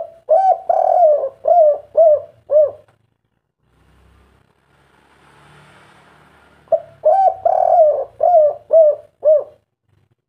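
Spotted dove (tekukur) singing its 'kuk 3' song, twice: each phrase is a couple of short coos, one longer drawn coo, then three short clipped coos ending it. A faint hiss fills the gap between the two phrases.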